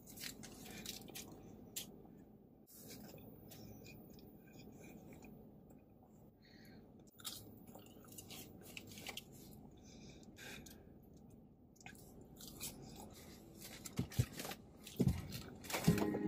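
Close-up mouth sounds of a person biting and chewing a burger and fries: soft wet smacks and small crunches. A few louder knocks come near the end.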